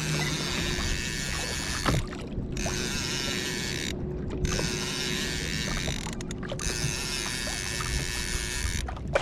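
Steady rushing hiss of water and air around a kayak, with a faint steady hum. The hiss drops out briefly about every two seconds.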